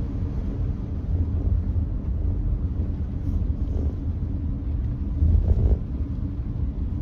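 Steady low road and tyre rumble of a Nissan Note e-POWER driving on a wet expressway. The rumble swells briefly about five seconds in.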